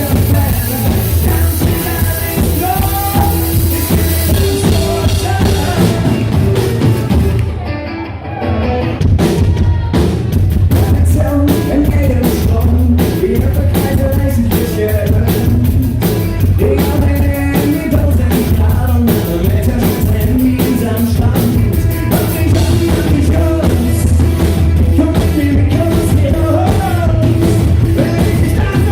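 Live rock band playing with a lead singer, loud, with drums and a steady bass underneath. About eight seconds in the music briefly drops away, then the full band comes back in with a driving, regular beat.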